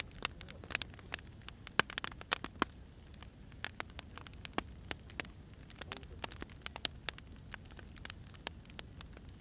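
Firewood burning, with irregular sharp crackles and pops over a faint low steady rumble.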